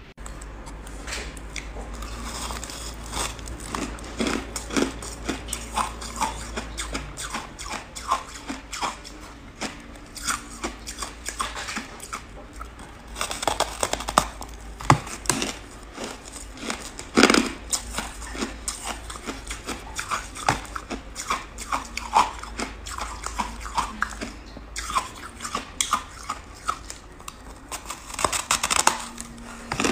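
Close-up biting and chewing of a crunchy buckwheat chunk: a dense run of crisp crackles and crunches, with a louder snapping bite now and then.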